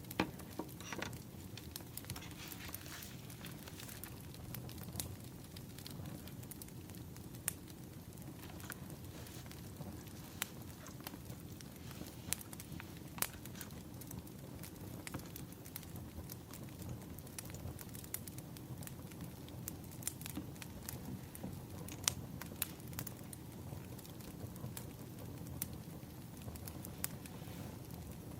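Firewood burning and crackling: irregular sharp pops and snaps over a low, steady rushing of the flames.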